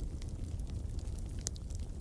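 Wood fire crackling: a steady low rumble of the flames with scattered small pops, and one louder pop about three-quarters of the way through.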